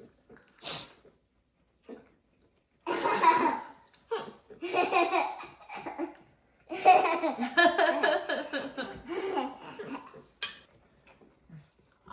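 Laughter in three long bursts, a small child's laughter among them.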